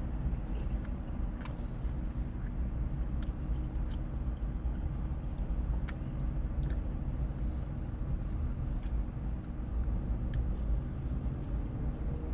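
A person chewing a mouthful of pasta, with scattered small clicks, over a steady low hum like an idling car engine.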